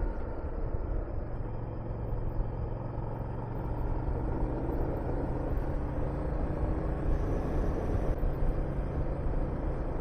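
Honda VTR250's V-twin engine running steadily while the motorcycle is ridden, with wind rushing over the microphone.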